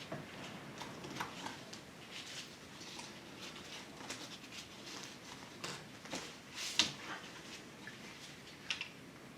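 Scattered light clicks, taps and small knocks of hand work at engine-bay fittings, as hoses and connectors are pulled off; the sharpest click comes about two-thirds of the way in.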